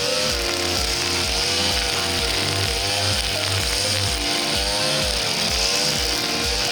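Small two-stroke engine of a 52cc backpack brush cutter running at high revs while its nylon cord head cuts through dense brush; its pitch wavers up and down as the load changes. Background music with a steady beat plays along with it.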